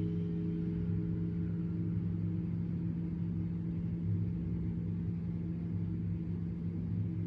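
Singing bowl ringing with a low steady hum; its higher overtones fade out in the first second, over a deep rumble.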